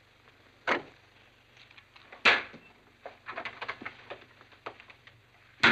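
A door and footsteps in a room: a knock, a louder thump about two seconds in, a run of light taps, and a sharp knock at the very end.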